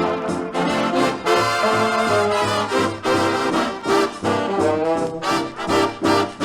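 Big-band radio orchestra playing, led by trombones and trumpets over a pulsing bass line.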